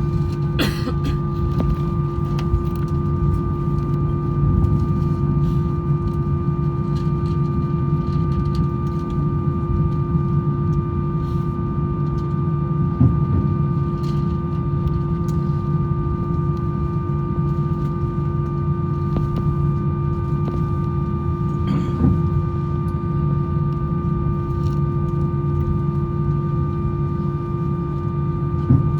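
Airbus A321 cabin noise during the taxi after landing: a steady low rumble with a constant hum from the engines and aircraft systems, and a few brief knocks and rattles.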